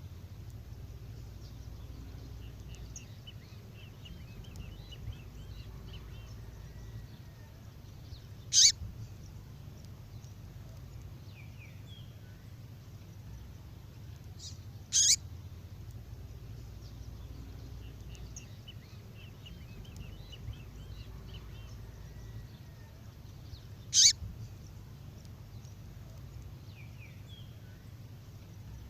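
A recorded female songbird call, the kind used to excite male 'fibra' birds: three loud, sharp chip calls spaced several seconds apart, with softer high twittering between them over a steady low hum.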